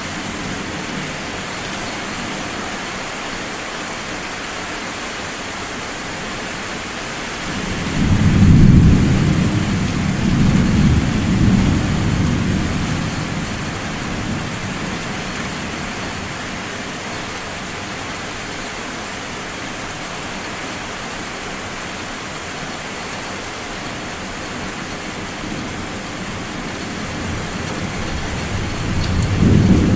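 Rolling thunder over steady rain. A deep rumble swells about eight seconds in and rolls on for several seconds before dying away, and another rumble builds near the end.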